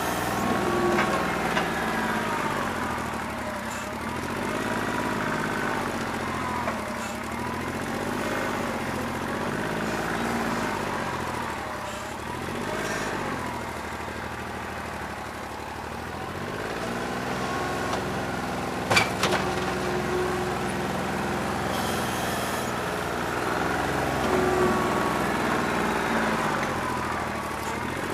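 New Holland 1320 compact tractor's three-cylinder diesel running with its engine speed rising and falling over and over, as under changing load. It has a bad injector, which the owner says leaves it running on about two and a half cylinders. A single sharp knock about two-thirds of the way through.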